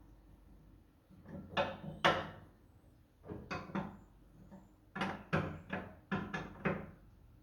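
A series of short knocks and clunks in uneven clusters, about a dozen in all, the loudest about two seconds in.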